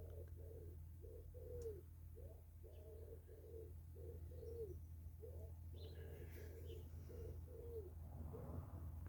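A pigeon cooing faintly in three phrases of several notes each, every phrase ending on a falling note, over a steady low hum.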